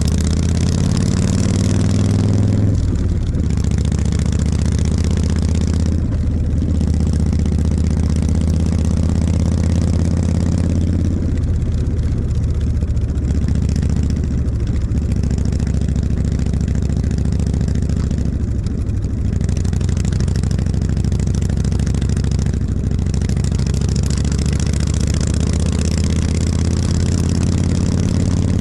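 Harley-Davidson V-twin motorcycle engine running under way. The engine note drops back briefly several times, and there is a steady rush of wind hiss, strongest at the start and near the end.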